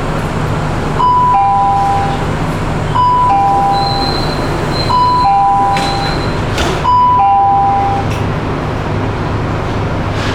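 Metro train door chime: a falling two-note ding-dong, repeated four times about two seconds apart, over the steady low hum of the train standing at the platform. A short knock comes just before the last chime.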